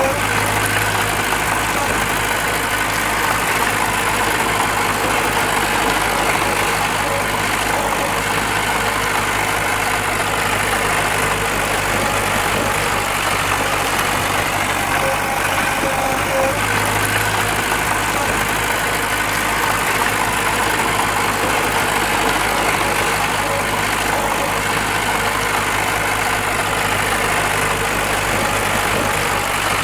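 Diesel engine of heavy earthmoving machinery running steadily, with a constant low hum and broad mechanical noise. The low hum briefly swells twice, once at the start and once about halfway through.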